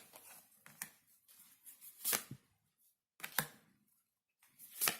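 Tarot cards being drawn and laid down on a table: a few sharp card slaps about a second apart, with faint rustling of the deck between them.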